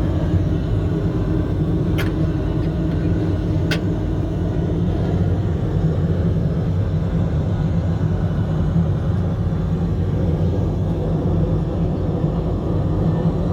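Steady, loud cabin drone of an Airbus A330-300 airliner in flight, a low rumble of engines and airflow, with two light clicks about two and three and a half seconds in.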